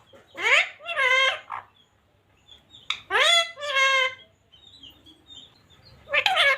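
Baby green ringneck parakeet calling: three loud two-part calls about three seconds apart, each a quick rising note followed by a held nasal note.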